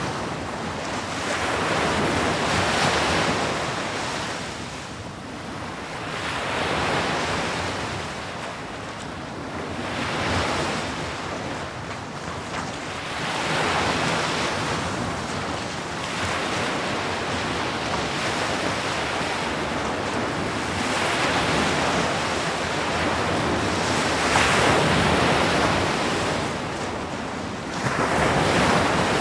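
Sea waves breaking and washing up on a shore, the surf swelling and falling back every few seconds. Wind is mixed in.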